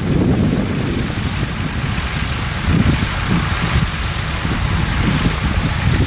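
Tractor engine running steadily, with a fluctuating low rumble and a hiss above it.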